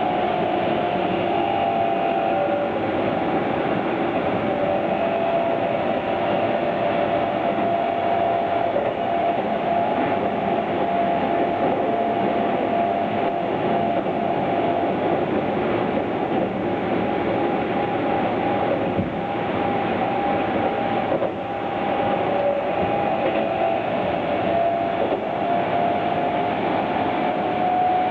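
Keihan 9000-series electric train heard from inside car 9054 while running: a steady rumble of wheels on rail, with a motor whine that drifts slowly up and down in pitch.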